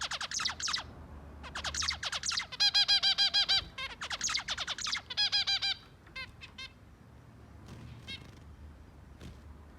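Zebra finches calling: clusters of quick downward-sweeping chirps alternating with rapid runs of short nasal beeps. The calls come thick for about six seconds, then thin out to a few faint ones.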